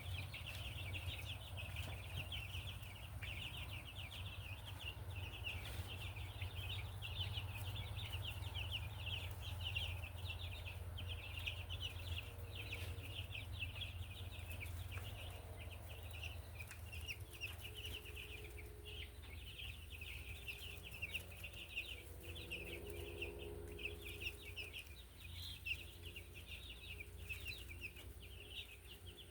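A flock of eight-day-old meat chicks peeping nonstop, a dense chorus of short high cheeps, over a steady low hum.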